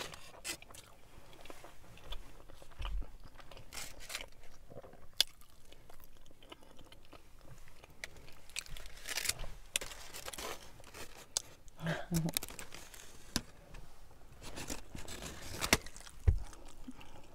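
A person chewing and biting into a large chorizo burrito, with scattered short wet clicks and smacks of eating.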